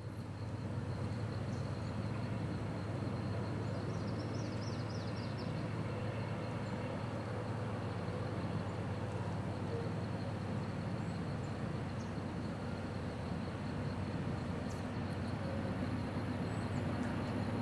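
Distant diesel locomotive, a GE C40-8, working under load as it pulls a loaded rail train up a grade: a steady low drone that slowly grows louder as it approaches. A bird chirps briefly about four seconds in.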